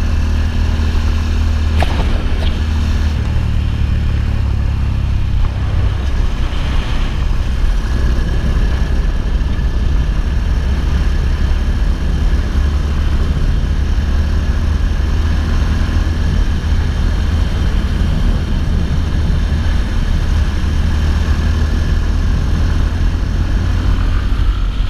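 Yamaha XTZ 250 Lander motorcycle's single-cylinder four-stroke engine running steadily, under a heavy, constant low rumble.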